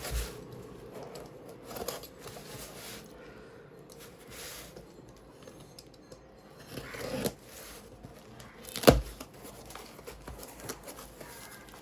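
Speaker packaging being unpacked by hand: cardboard and wrapping rustling, tearing and crinkling in irregular bursts, with one sharp knock about nine seconds in.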